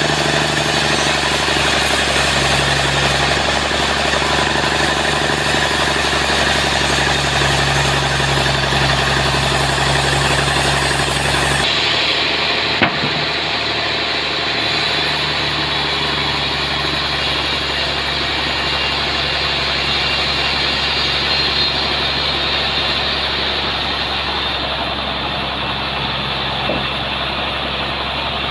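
Sawmill machinery running steadily under power. About twelve seconds in, the sound changes abruptly and becomes duller, and a single click follows shortly after.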